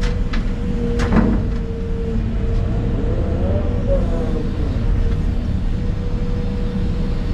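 Excavator's diesel engine running under work with a steady whine riding over its low rumble; the whine wavers in pitch briefly near the middle. A couple of sharp clunks sound within the first second or so.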